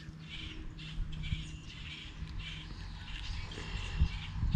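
Birds calling in short repeated notes, roughly two a second, over a low steady hum, with a few soft knocks about four seconds in.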